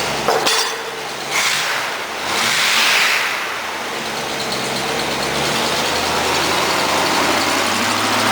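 1979 Oldsmobile 350 (5.7 L) V8 idling through Flowmaster mufflers. A sharp crack comes about half a second in, the engine revs up and falls back around two to three seconds in, then it settles to a steady idle.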